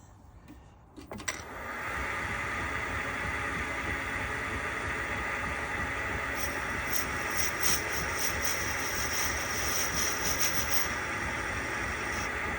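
A workshop machine tool is switched on with a click and runs up to a steady hum. From about halfway a high thin whine with rapid ticks joins it, the tool cutting metal on a small engine part, and the whine stops near the end.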